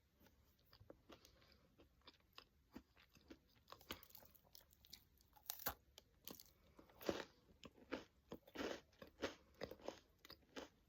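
Close-up crunching and chewing of a caramel-dipped pretzel rod. The crunches are faint and sparse at first, then come louder and closer together in the second half.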